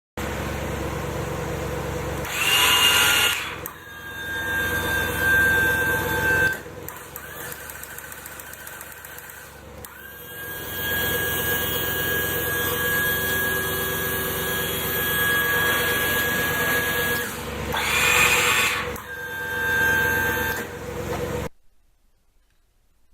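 Skid steer engine running with a steady high hydraulic whine, as the hydraulic wheel motor turns the trommel dirt sifter. Two louder noisy surges come about three seconds in and again near the end.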